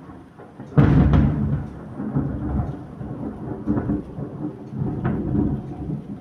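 Thunder from a close lightning strike: a sudden sharp crack about a second in, then heavy rumbling that rolls on for several seconds, with another crack about five seconds in.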